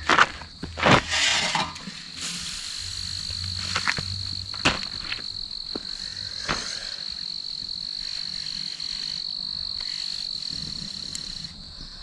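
A few sharp knocks or clatters in the first two seconds, then a cricket's steady high-pitched trill that runs on and stops shortly before the end.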